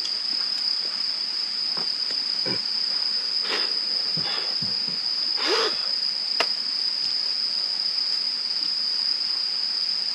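Crickets chirring in one unbroken high-pitched trill, with a few light knocks and clicks scattered through it, the loudest about five and a half seconds in.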